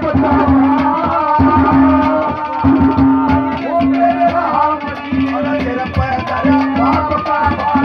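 Haryanvi ragni folk music played live: a hand drum beating a fast rhythm under steadily held melody notes.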